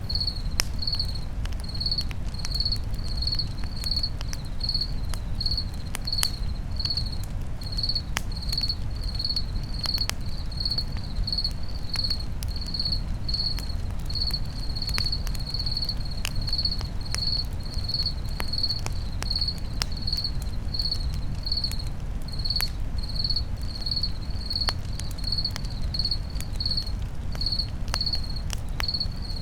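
Crickets chirping in a steady, regular rhythm, about one or two chirps a second, over a campfire's low steady rumble with scattered sharp crackles.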